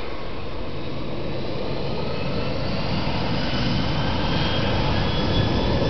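Airbus A300-600R's twin jet engines at takeoff thrust: a steady rushing roar that slowly grows louder, with a faint high whine gently rising in pitch.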